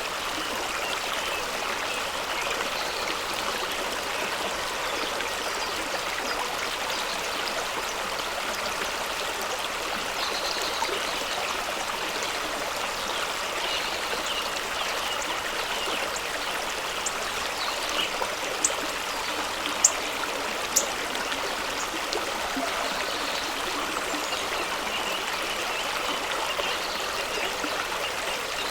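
A fast-running stream rushing and splashing over rocks in a steady, even wash of water noise. A few brief sharp ticks stand out about two-thirds of the way in.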